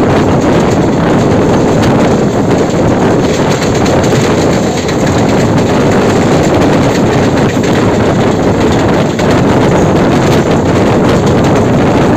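Steady wind noise on the microphone at the open doorway of a suburban electric local train running at high speed, mixed with the train's running rumble of wheels on rail.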